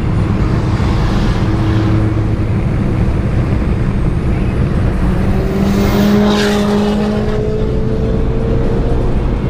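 Car engines running, with one car passing close about six seconds in, its engine note slowly rising.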